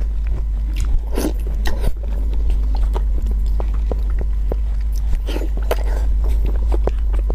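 Close-miked wet biting and chewing of soft, gelatinous braised pig skin in sauce: scattered lip smacks and sticky clicks, over a steady low hum.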